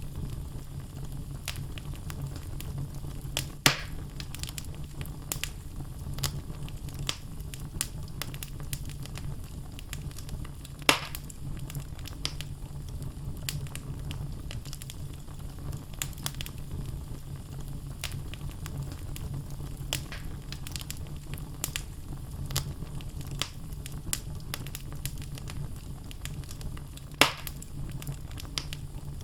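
Wood fire burning in a fireplace: a steady low rumble with frequent small crackles and three louder pops from the logs.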